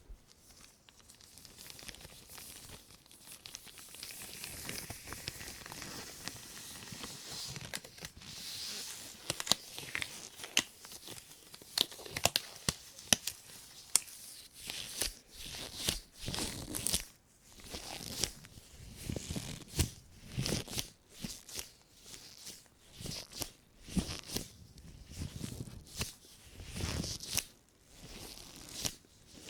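Thin white plastic shopping bag rustling and crinkling under rubber-gloved hands. A fairly even crinkle for the first several seconds gives way to irregular sharp crackles and swishes.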